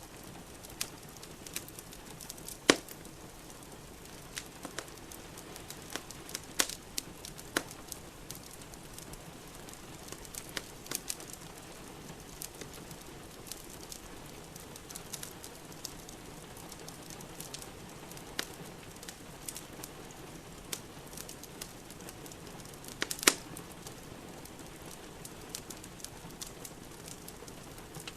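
Wood fire in a fireplace crackling, with sharp pops at irregular intervals, the loudest about three seconds in and near the end, over a steady hiss of rain.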